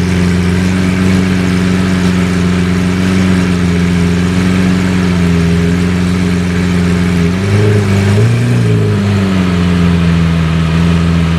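Car engine idling steadily, with one short rev that rises and falls about seven and a half seconds in.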